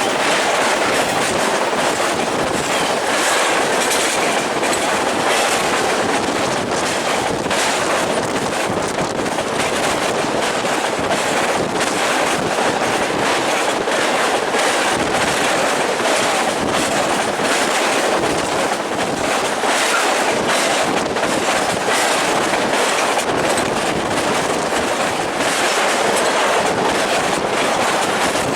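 A train rolling past close by, its wheels clicking over the rail joints in a steady, continuous clatter.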